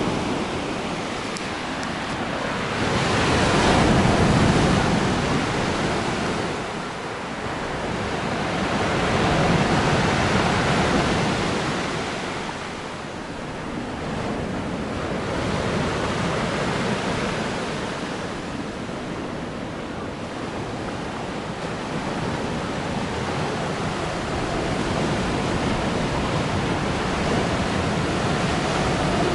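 Black Sea surf: waves washing onto the shore in a continuous wash that swells and ebbs slowly, loudest about 4 and 10 seconds in.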